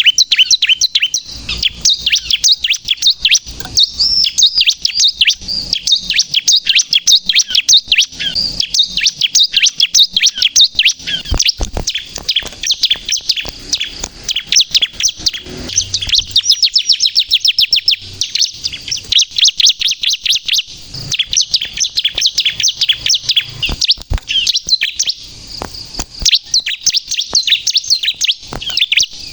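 Bar-winged prinia (ciblek, the 'kristal' type) singing vigorously: a continuous stream of fast, high-pitched chattering notes and trills with only brief pauses, over a few faint knocks.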